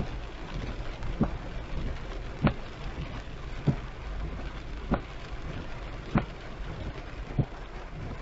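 Heavy rain on a moving car, with a steady rush of rain and road noise. A windshield wiper thumps at the end of each sweep, evenly about every second and a quarter.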